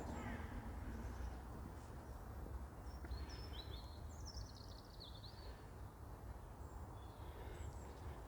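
Quiet outdoor ambience: a steady low rumble under small songbirds chirping, with one quick descending trill of notes about four seconds in.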